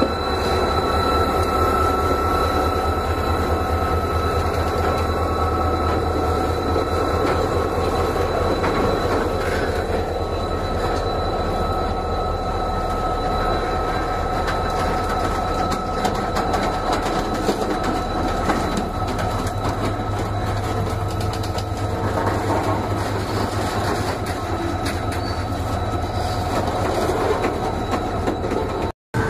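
A diesel locomotive and then a long train of covered freight wagons rolling past close by, with a steady, loud rumble and clatter of wheels on rail and a thin squeal from the wheels. The sound cuts out briefly just before the end.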